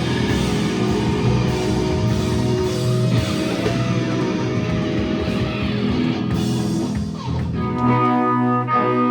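Live rock band playing, with guitar and drums. A little before the end a held chord rings out.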